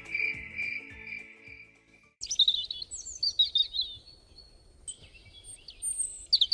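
Background music with a pulsing beat fades out about two seconds in. Then birds sing in quick, high chirping and twittering phrases.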